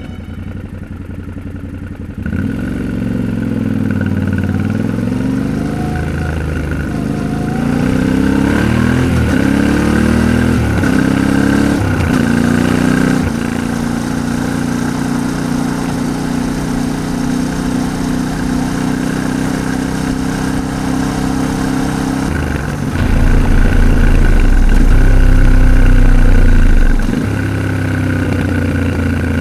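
Yamaha Ténéré 700's 689 cc parallel-twin engine pulling away and shifting up through several gears, then cruising at a steady pitch. A louder low rumble swells for a few seconds near the end.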